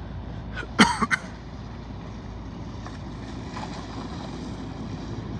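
A short cough or throat-clear about a second in, over the steady low rumble of vehicles idling.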